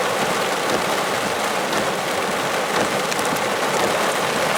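Heavy rain pouring down, a steady dense hiss of rain on the ground and street.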